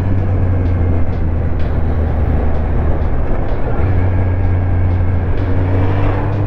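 Kawasaki Z1000's inline-four engine running steadily at low revs under way, its pitch dipping for a moment about three seconds in and then picking up again.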